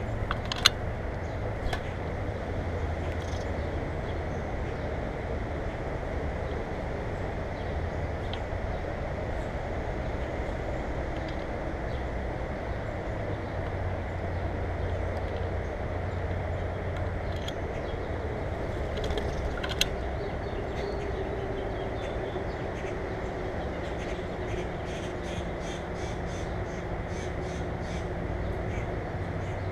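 Steady low background rumble outdoors, with a few sharp clicks and scattered short bird calls, which become a quick series of repeated calls in the last few seconds.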